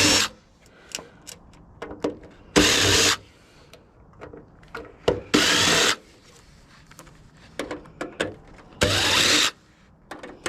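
Power drill run in four short bursts of about half a second, a few seconds apart, with small clicks and taps of metal handling between them.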